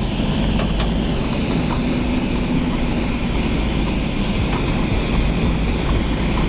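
Toyota Van Wagon driving over a bumpy off-road trail, heard from inside the cabin: a steady engine drone over a low rumble, with a few light knocks and rattles from the body.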